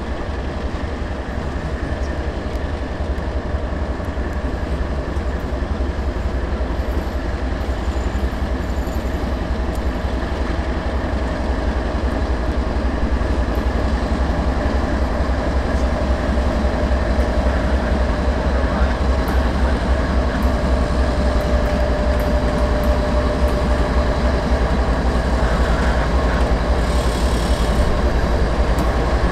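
A train rolling past on the track, its railcars running by in a steady rumble that holds and grows slightly louder.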